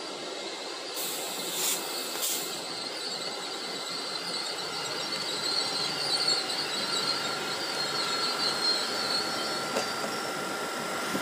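LNER Class 801 Azuma electric train running into the platform and slowing, with a steady high-pitched squeal as it brakes. There are two short hisses about two seconds in.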